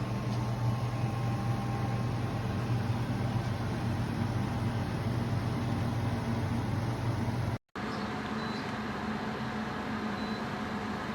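Portable air conditioner running with a steady hum and fan noise. After a brief cut about three-quarters of the way through, the deepest part of the hum is gone and a lighter, higher hum carries on.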